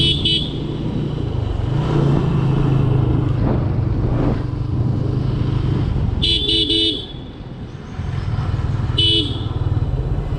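TVS Apache RTR 160's single-cylinder engine running steadily under way, with short horn beeps: one at the start, a quick run of about four about two-thirds of the way in, and one more near the end. The engine eases off for a second after the run of beeps.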